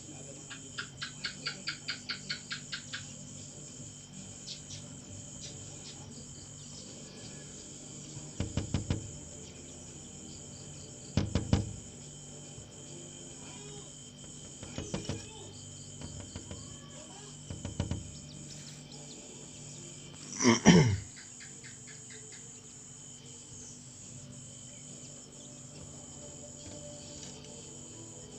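A bird pecking at its reflection in window glass, heard as short bursts of quick taps, four times, after a run of rapid chirps near the start. Around two-thirds of the way in, a loud sound slides steeply down in pitch. A steady insect drone sits underneath.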